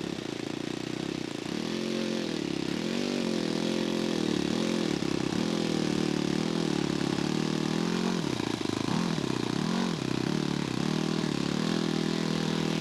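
Radio-controlled scale model airplane engine running in flight, its pitch wavering up and down. About eight seconds in it drops low and then climbs back.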